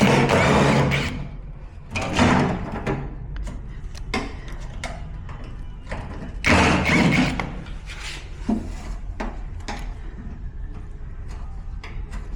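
Scattered knocks and clatter from washing-machine parts being handled during disassembly, with three longer, louder bursts of scraping noise: near the start, about two seconds in, and about six and a half seconds in.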